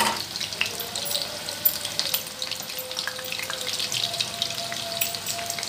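Marinated boneless chicken pieces deep-frying in hot oil in a pan: a steady, dense crackle of small spattering pops, with one sharper pop about a second and a half in.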